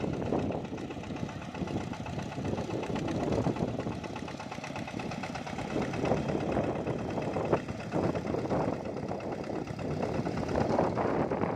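Bulldozer's diesel engine running steadily and roughly, with one sharp knock a little past the middle.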